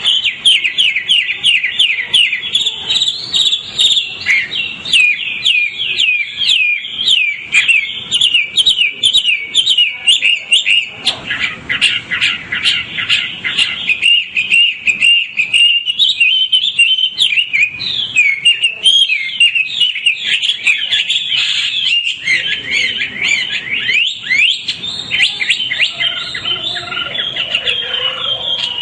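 White-rumped shama (murai hutan) singing continuously: fast runs of sharp, repeated chirps and whistled notes, phrase after phrase with hardly a pause.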